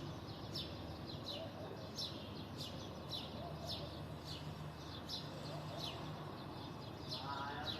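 Sparrows chirping repeatedly, short falling chirps about twice a second, over a steady low background hum. A drawn-out pitched call comes in near the end.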